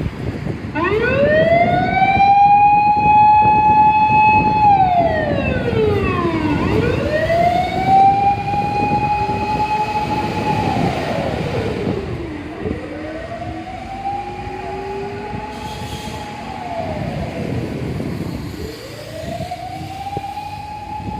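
Japanese fire rescue truck's siren wailing in long cycles about every six seconds: the pitch rises, holds high for a few seconds, then falls. It grows fainter in the second half as the truck pulls away.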